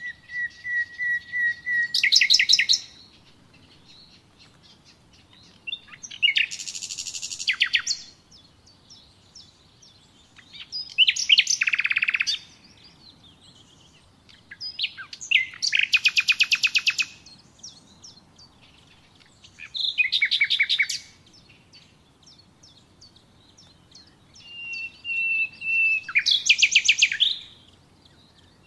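A bird singing: six short phrases of rapid high trills, about every four to five seconds, some opening with a held whistle.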